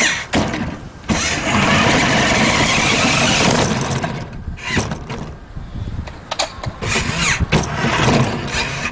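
1/8-scale radio-controlled Silverado truck running: a loud, steady stretch for about three seconds, then a series of short bursts.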